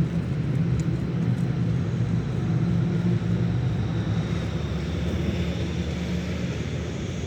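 A steady, low engine drone with a rushing noise over it, easing off slowly near the end.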